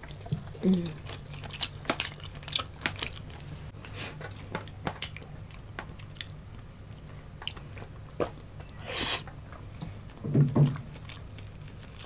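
Close-miked chewing of crispy bagnet (deep-fried pork belly), with many sharp crunches and mouth clicks. There is a short noisy burst about nine seconds in, followed by a brief hummed voice sound.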